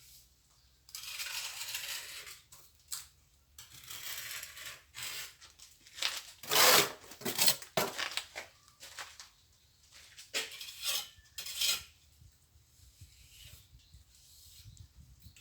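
Steel plastering trowel scraping mortar and clinking against a metal pan or board, in irregular strokes, the loudest about six to seven seconds in.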